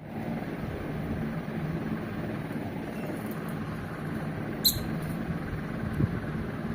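A small caged bird gives one short, high squeak-like chirp about two-thirds of the way in, with a few fainter chirps just before it, over a steady low rumble.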